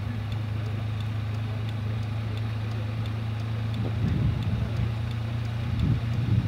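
Car engine running steadily at low speed, a constant low hum heard from inside the car. Faint voices come in briefly near the middle and end.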